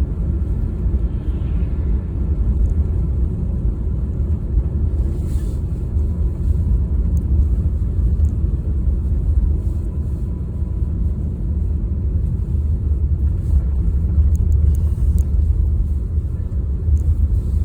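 Steady low rumble of a car driving along the road, with continuous road and engine noise and no distinct events.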